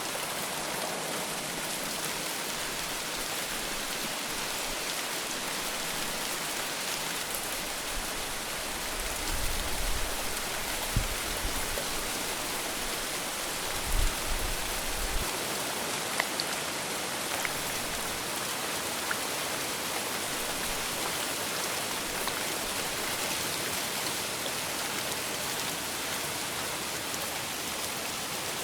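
Steady rain falling, an even hiss of drops. A few brief low rumbles come about a third of the way through and again near the middle.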